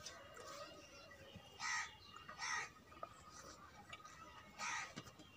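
Three short bird calls: two close together in the first half, the third about two seconds later.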